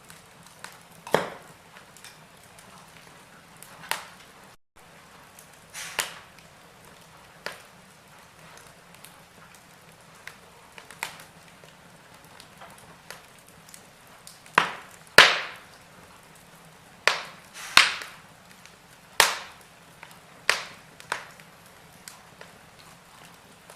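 Wood fire in a fireplace crackling: irregular sharp pops and snaps over a faint steady hiss, with a run of louder pops a little past the middle.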